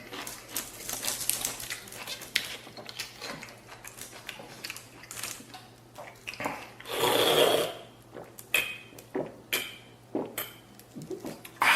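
Chopsticks and utensils clicking and knocking against dishes while someone eats stewed spare ribs, with a louder rushing sound lasting under a second about seven seconds in.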